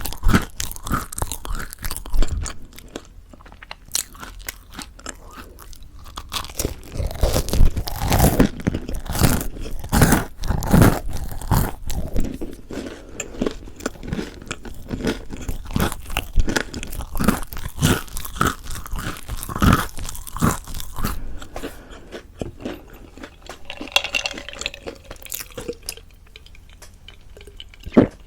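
Close-miked ASMR eating of crispy mocha bread: bites and chewing through the crunchy crust make rapid, dense crunches for about twenty seconds, then thin out to softer chewing near the end.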